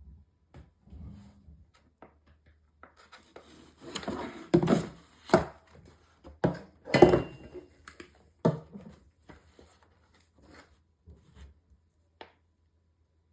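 Handling noise from setting a replacement battery cell into a MacBook Pro's case: irregular taps, clicks and knocks, busiest and loudest in the middle.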